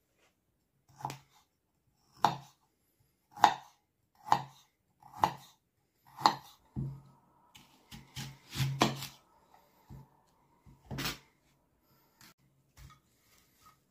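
Kitchen knife chopping on a cutting board: six firm, single cuts about a second apart, then a quicker, uneven run of cuts, one more firm cut, and a few lighter taps near the end.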